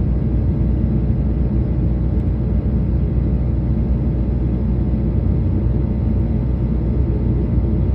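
Airliner cabin noise heard from a passenger seat: the steady low rumble of the jet engines and airflow, unchanging throughout.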